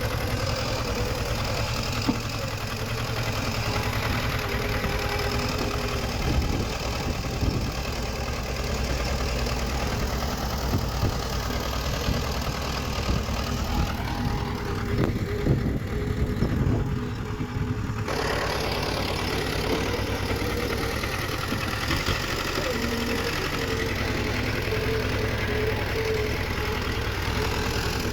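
Diesel engine of heavy earthmoving machinery running steadily, with irregular knocks and clanks between about six and seventeen seconds in.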